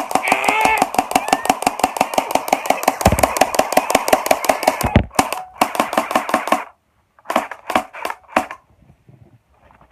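Toy M16-style gun firing: a long rapid burst of about eight clicks a second with a steady buzzing tone for about five seconds, then a shorter burst and a few single shots.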